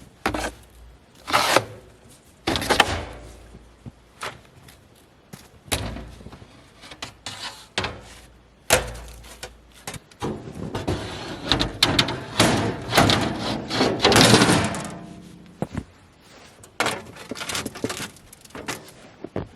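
Irregular knocks and thunks of hard objects being handled and set down, with a longer stretch of scraping and rustling about ten seconds in.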